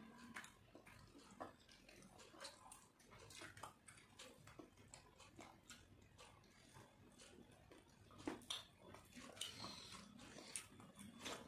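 Faint eating sounds of two people eating rice and fish by hand: chewing, lip smacks and scattered small clicks, with fingers working rice on ceramic plates.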